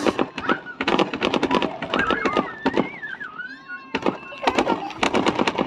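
Fireworks going off in a rapid string of sharp crackling pops, dozens of reports in quick succession with a short gap about four seconds in.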